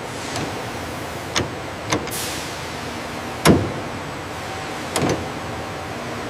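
Steady machinery hum in a factory, broken by a few sharp metallic clanks, the loudest about halfway through.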